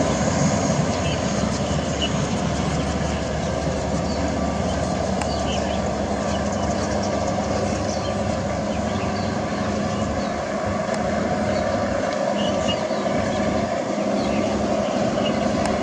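State Railway of Thailand train, a steady rumble with a constant low engine hum and faint scattered ticks.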